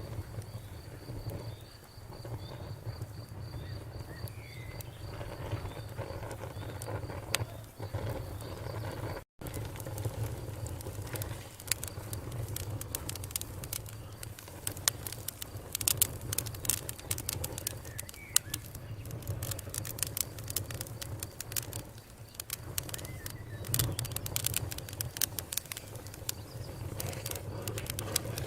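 Wood campfire crackling, with frequent sharp pops and snaps over a steady low rumble of the flames. The sound cuts out for an instant about nine seconds in.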